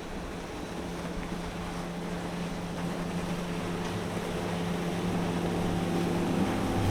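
Motorboat engine running with a steady hum, growing louder throughout.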